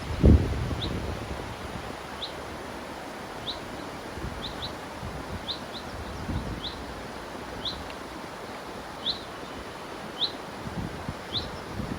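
A songbird repeating a single short, high chirp about once a second over the steady rush of river water. A brief low rumble of wind on the microphone comes just after the start.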